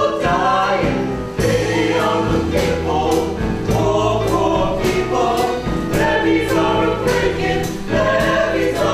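A stage musical's ensemble cast singing a gospel-style choral number with band accompaniment and a steady beat of percussion hits.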